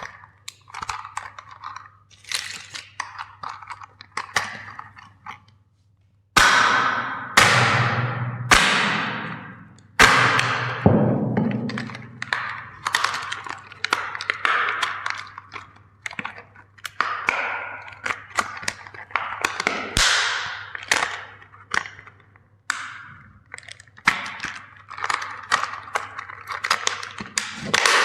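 Plastic toys being crushed: a long run of sharp cracks and crunches as the plastic breaks, with the loudest snaps about six and ten seconds in.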